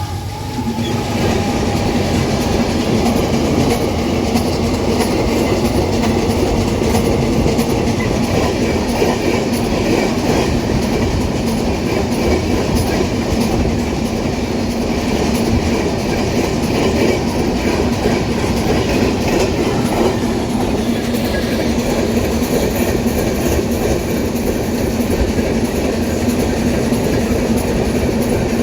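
An empty iron ore freight train rolling past, its wheels clattering over the rail joints in a steady, continuous rumble with a low steady hum.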